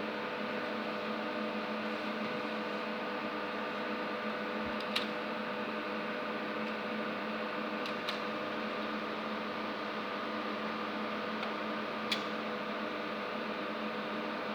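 Steady machine hum and fan whir with several constant tones, broken by a few faint clicks about five, eight and twelve seconds in.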